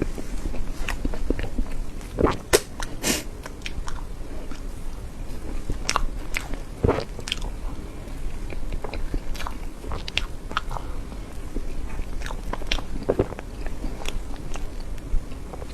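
Close-miked eating: a person biting and chewing soft cream cake, with short mouth clicks and smacks at irregular intervals. The loudest come about two and a half to three seconds in.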